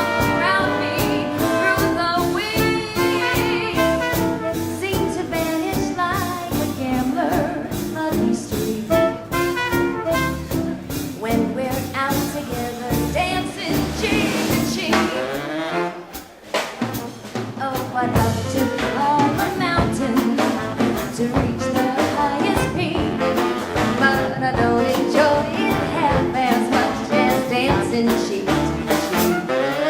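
Live 1940s-style swing combo playing an instrumental passage, horns led by saxophone, which drops away briefly about halfway through before the band comes back in.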